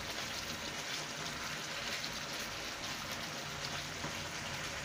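Chicken pieces sizzling and bubbling in oil and their own released juices in a frying pan, a steady fine crackle.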